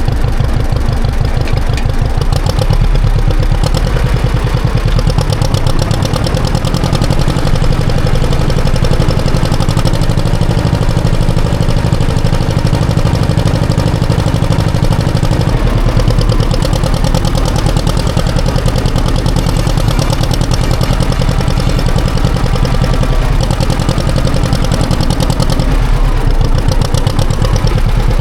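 Classic John Deere tractor engine running steadily under way, a continuous low rumble with a fine, even firing pulse.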